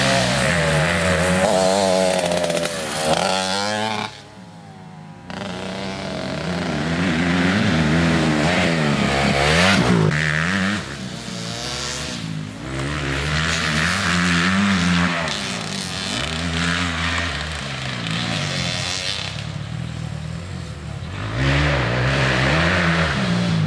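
Motocross bike engine being ridden hard, its pitch climbing and dropping over and over with the throttle. The engine note briefly falls away about four seconds in.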